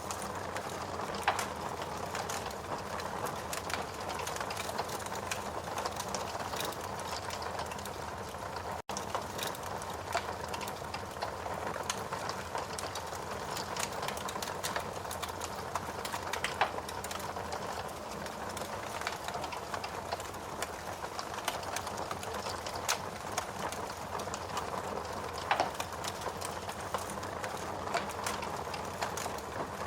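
Wood fire burning in a fireplace: a steady hiss of burning with dense small crackles and a few louder pops. The sound cuts out for an instant about nine seconds in.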